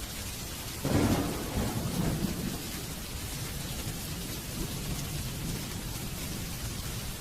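Steady rain with a thunderclap a little under a second in, a sudden low crack that rolls off into a rumble over the next couple of seconds.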